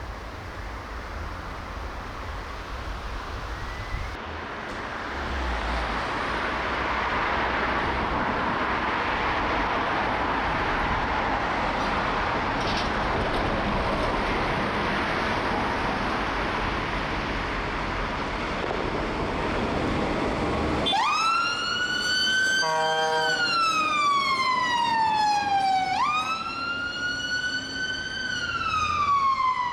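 A steady rush of heavy-vehicle and road noise builds after the first few seconds. About two-thirds of the way through, a fire engine's wail siren starts, sweeping quickly up and then falling slowly in cycles of about five seconds, with a brief stuttering horn blast just after it begins.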